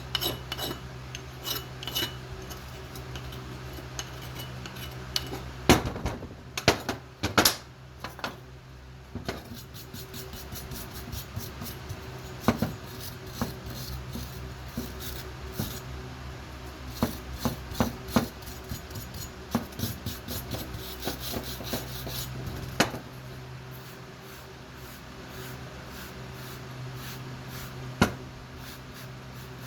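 Metal being rasped and scraped by hand, with a steady hum underneath and several sharp metallic knocks and clanks, a cluster of them about six seconds in and single ones later.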